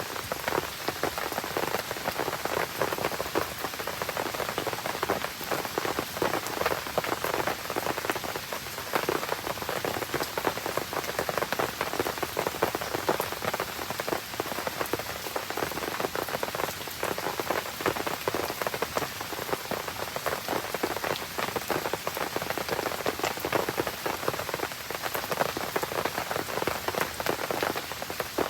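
Steady rain falling and pattering on surfaces, a dense, even patter of many small drop ticks.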